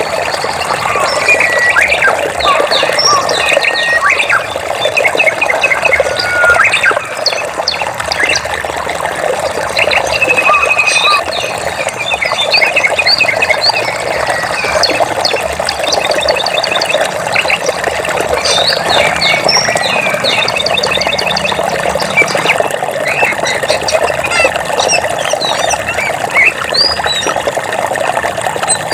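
Many birds chirping and trilling, with quick repeated notes and short whistles overlapping, over the steady rushing of flowing water.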